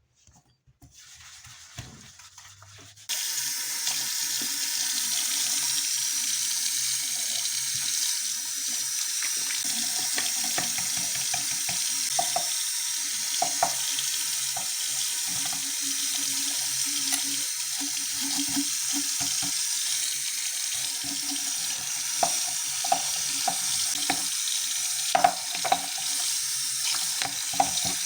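Water running from a tap into a sink: a steady rush that starts about three seconds in, with small knocks and clatter over it, the loudest a little before the end.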